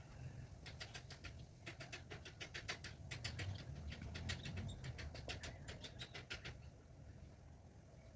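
A greater coucal at the nest makes a quick run of short, sharp ticks, about five or six a second, for some six seconds, over a steady low rumble.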